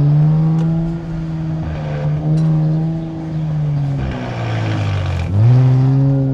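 Nissan Z Nismo's twin-turbo V6 heard through a Nismo Track exhaust while driving: a steady engine note that sags as the throttle eases, then rises sharply and gets louder as the car accelerates about five seconds in.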